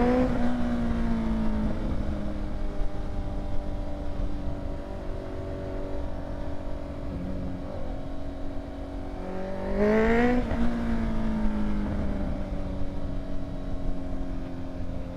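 Honda CBR650's inline-four engine through an aftermarket exhaust under way. The revs climb and drop with a gear change at the start and again about ten seconds in, with steady cruising in between, over low wind rumble on the microphone.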